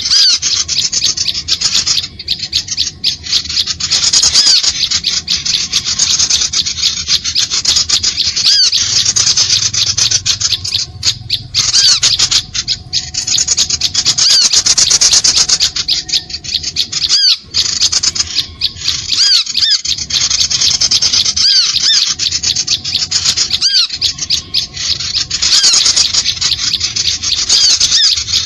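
Recorded small-bird lure calls: a dense, rapid, high-pitched chattering of small birds, buzzy and almost unbroken, with a few brief gaps.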